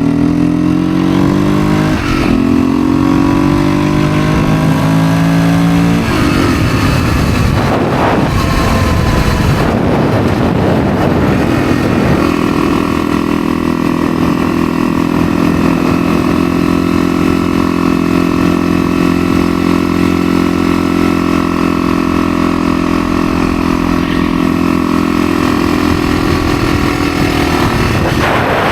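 Dirt bike engine under way, climbing in pitch through the gears with a drop at each shift about 2 and 6 seconds in. It then holds a steady speed from about 12 seconds on.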